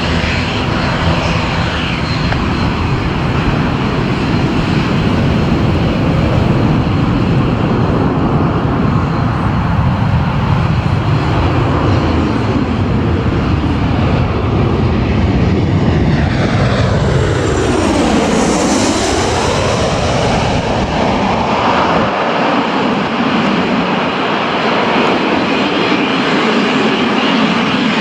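Aircraft engines running loud and steady as a plane passes close by, with a swooshing sweep that falls and then rises in pitch about two-thirds of the way through; the deep rumble thins out near the end.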